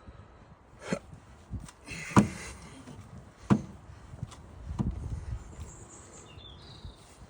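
A series of irregular knocks and clunks, about six in all, the loudest about two seconds in with a short hiss around it.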